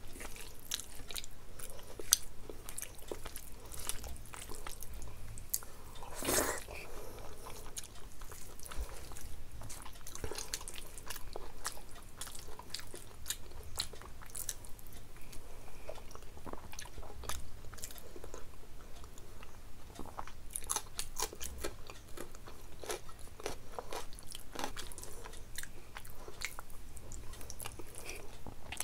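Close-miked eating: a person chewing food with frequent small crunches and wet clicks, and one louder, longer noise about six seconds in.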